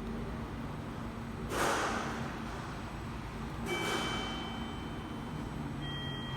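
Electric train arriving at a station and braking: a steady rumble with two short hisses of air, then a steady high brake squeal of two tones from about halfway, with a lower tone joining near the end.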